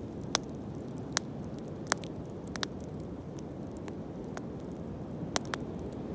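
Wood bonfire burning with a steady low rush, and sharp crackling pops now and then, about six in all, the loudest about a second and two seconds in.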